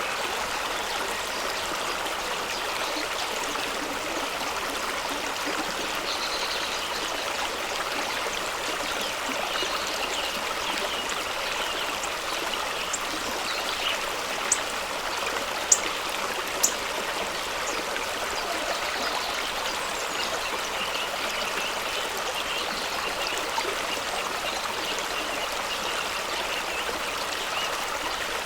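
Fast-running stream rushing over rocks in a steady wash of water noise, with three sharp ticks a little past the middle.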